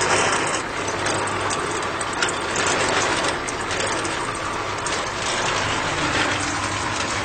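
A small motor running steadily with its gears whirring and clicking, typical of a miniature model tractor at work.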